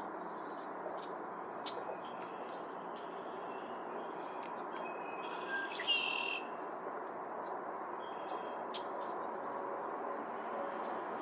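Birds calling: scattered short chirps and chips, with one louder call about six seconds in, over a steady low background hiss.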